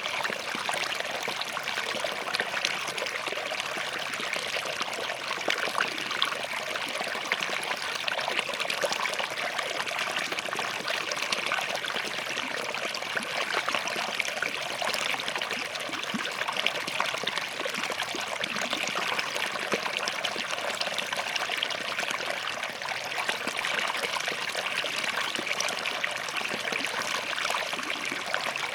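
Small forest stream running over rocks: a steady, busy trickle and splash of flowing water.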